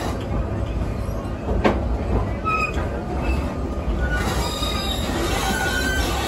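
Theme park railway train rolling along the track with a steady low rumble, brief short wheel squeals, and a single sharp knock about a second and a half in.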